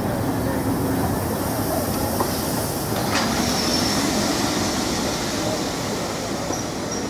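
Train of passenger coaches rolling slowly past the platform, with steady wheel-on-rail rumble. A single knock comes about three seconds in, followed by a thin high wheel squeal that returns near the end.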